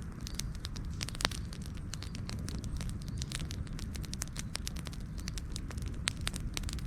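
Wood fire crackling steadily, with irregular sharp pops and snaps, a louder pop about a second in, over a low steady rumble of the flames.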